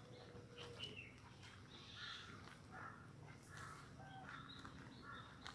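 Faint outdoor ambience with scattered distant bird calls and a few light clicks.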